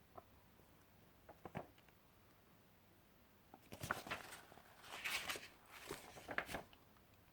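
A few faint clicks, then about three seconds of rustling handling noise broken by several sharp clicks, starting a little past halfway through.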